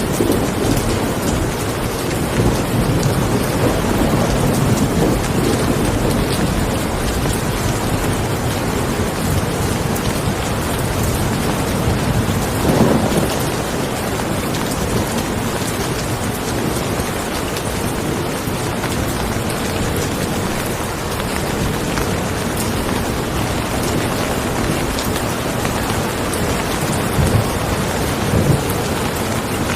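Steady rain falling, with thunder rumbling low underneath; the rumble swells briefly about halfway through and again near the end.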